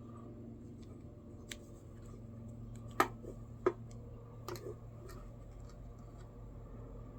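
Scattered sharp clicks and taps from hand work with tools and materials, the two loudest about three seconds in and under a second apart, over a steady low hum.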